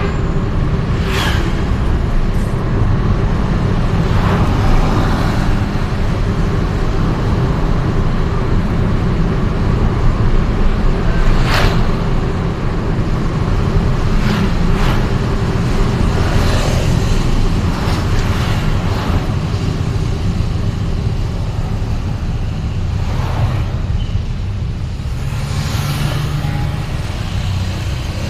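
Steady road-traffic rumble heard from a moving vehicle in city streets, with a few brief sharp sounds standing out over it.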